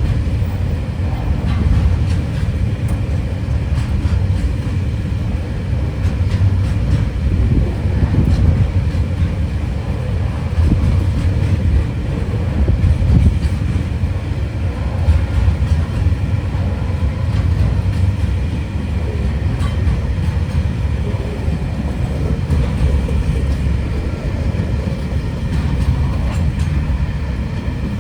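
TasRail freight train rolling past, a steady low rumble from its wheels and wagons.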